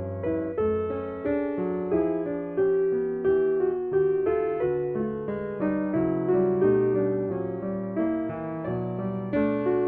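Solo jazz piano playing a slow ballad: a steady stream of struck chords and melody notes, each left to ring and fade.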